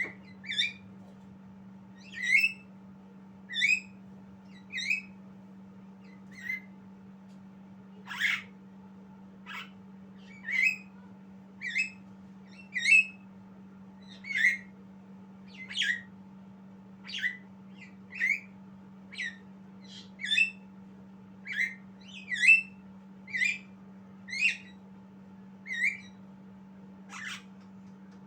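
Javan myna giving short, sharp squawking calls, one roughly every second, over a steady low hum.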